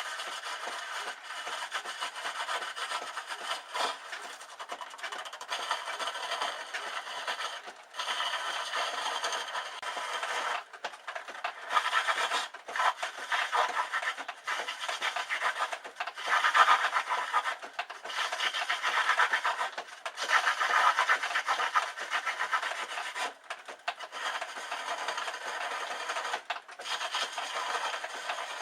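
A woodturning gouge cutting wood spinning on a homemade foot-powered treadle lathe: a continuous scraping, shaving sound with several brief breaks as the tool comes off the work, louder in stretches through the middle.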